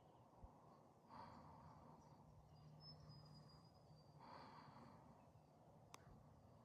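Near silence, with two faint rushes of noise about three seconds apart and a single faint click near the end.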